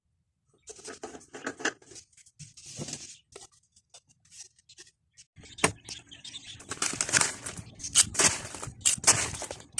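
Irregular rustling, crinkling and sharp clicks of things being handled, getting busier and louder about halfway through.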